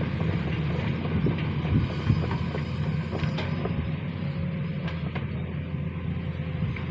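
Sany SY215C excavator's diesel engine running steadily, with scattered light knocks from the machine at work.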